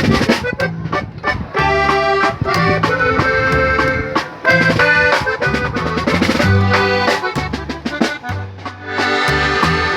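Accordion playing an instrumental passage of a Mexican song, a running melody of quick notes over a low bass line that steps from note to note.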